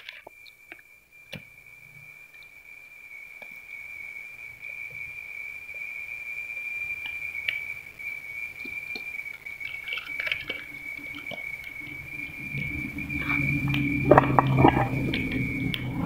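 Fire burning coconut coir, with scattered crackles and pops over a steady high whistle. From about twelve seconds in, a low rumble of flames builds and grows louder, with a burst of louder pops just after.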